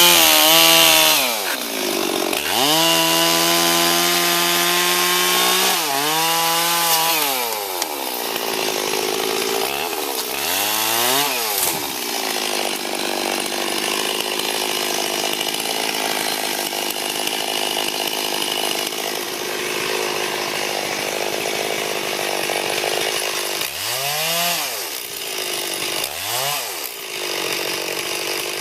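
Stihl 440 two-stroke chainsaw revving up and down several times, then running steadily under load through a long cut in a tree, with two more revs near the end.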